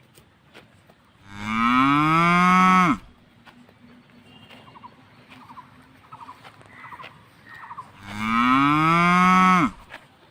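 A cow mooing twice, about six seconds apart. Each moo is a long call of under two seconds that rises a little in pitch and drops off sharply at its end.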